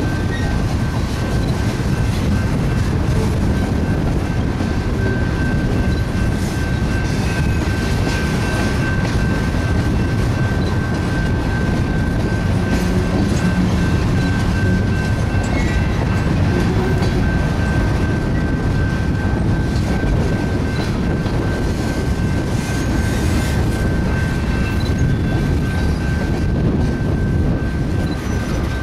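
Freight train's hopper cars rolling steadily past: a continuous rumble of steel wheels on rail with clickety-clack, and a thin, steady high tone above it.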